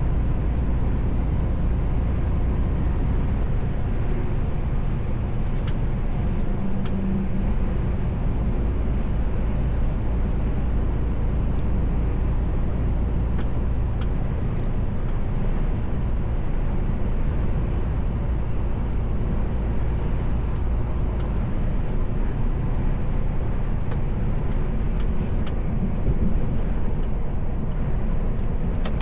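Mercedes-Benz Actros L truck on the move: a steady low diesel engine drone mixed with tyre and road noise.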